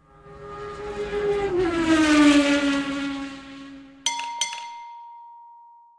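A car engine passing by, its note swelling and dropping in pitch as it goes past. About four seconds in come two quick metallic clinks and a ringing chime that fades away.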